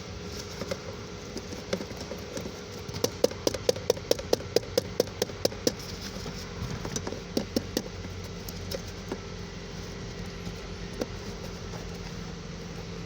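A run of sharp taps, about four a second for a few seconds, then a few scattered ones, over the steady sound of the 2010 Subaru Liberty's engine idling: the engine computer being tapped to see whether a suspected bad solder joint makes the engine cut out, and it keeps running.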